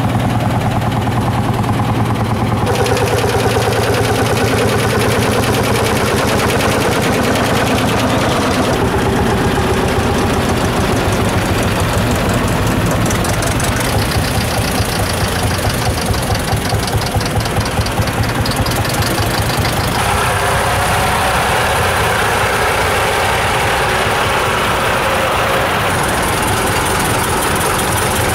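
Tractor engines running, with a rapid, even firing pulse. The engine sound changes abruptly several times, as one tractor gives way to another.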